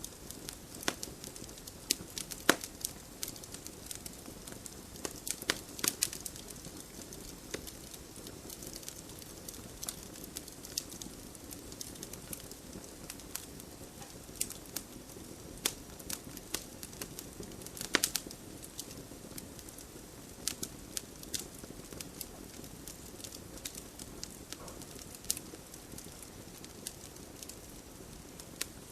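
Campfire burning with irregular sharp crackles and pops over a steady low hiss of the flames, two pops louder than the rest, one about two and a half seconds in and one about eighteen seconds in.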